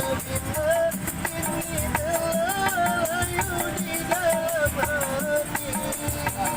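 Street busker music: a wavering melody line over a fast, even shaken-rattle rhythm.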